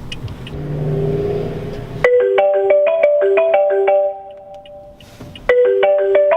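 Phone ringtone with a marimba-like run of quick plucked notes: one phrase, a pause, then the phrase starting again near the end. Before it, a low steady car-cabin hum.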